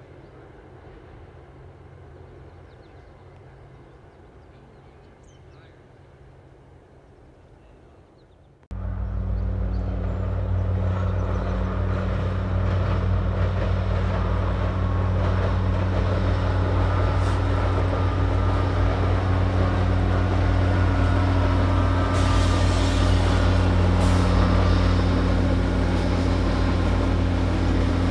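Diesel-hauled passenger train on a steel trestle viaduct: faint and distant at first, then about a third of the way in it jumps suddenly to a loud, close, steady diesel locomotive drone, with wheels rumbling on the steel bridge.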